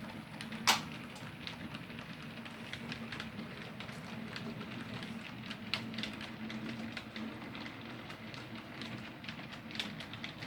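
Model train running round the layout: a steady low motor hum with a patter of small clicks from the wheels on the track, and one sharper click about a second in.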